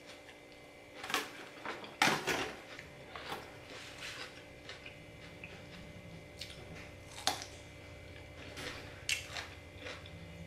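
Close-miked chewing and crunching of salad, with scattered short, sharp crunches and clicks, the loudest about two seconds in.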